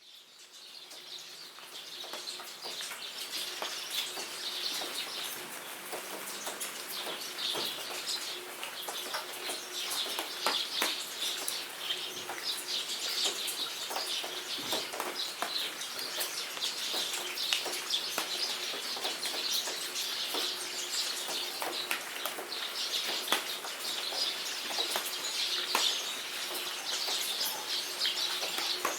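Rain falling in a jungle, many sharp drops ticking, under a constant chatter of birds chirping. It fades in over the first few seconds, then runs steadily.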